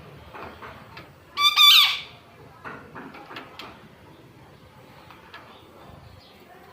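Alexandrine parakeet giving one short, loud squawk about a second and a half in, followed by a few faint clicks.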